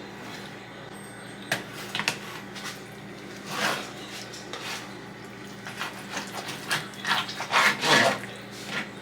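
Kitchen knife dicing raw salmon on a cutting board: a couple of sharp knocks on the board, then several longer slicing strokes.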